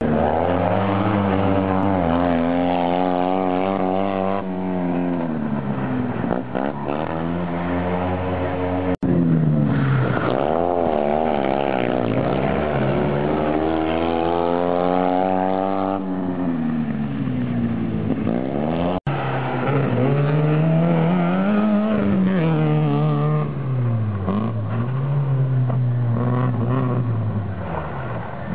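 A Fiat 126p rally car's small air-cooled two-cylinder engine revving hard and falling back again and again as it is driven around a tight course, the pitch climbing and dropping every couple of seconds with gear changes and lifts. The sound breaks off briefly twice.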